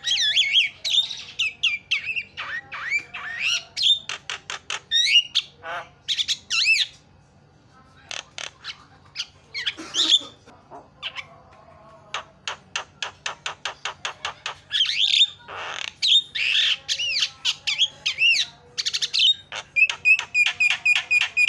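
Javan myna (jalak kebo) calling noisily: rapid runs of harsh clicks mixed with whistled notes that rise and fall, and squawks. There is a short lull about seven seconds in.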